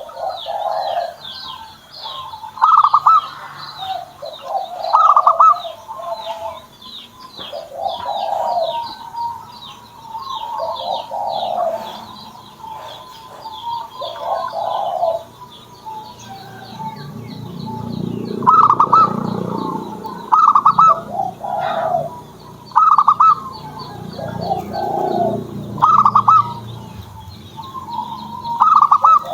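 Zebra doves (perkutut) cooing over and over, each phrase a quick burst of trilled notes followed by a lower, rounder coo. A small bird chirps rapidly and steadily high above them, and a low rushing noise comes in during the second half.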